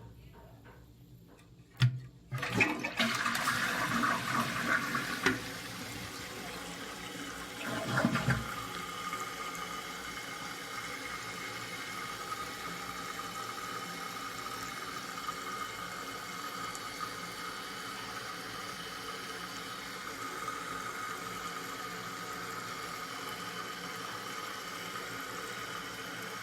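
A 2001 Eljer Savoy toilet flushing: a sharp click of the handle about two seconds in, then the rush of the flush for about three seconds, and a gurgle about eight seconds in. After that the tank refills with a steady hiss and a faint whistle from the fill valve.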